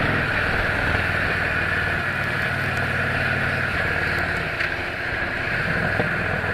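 Victory Cross Country's V-twin engine running while the motorcycle is under way, with wind rushing over the microphone. The engine note dips and climbs again about halfway through.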